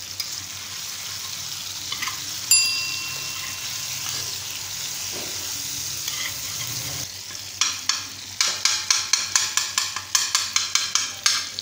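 Goat brains and tomato masala sizzling in hot oil on a tawa. About two and a half seconds in, a metal spoon strikes the pan once with a ringing clang. Over the second half, the spoon mashes the brains against the tawa in rapid scraping taps, about three a second.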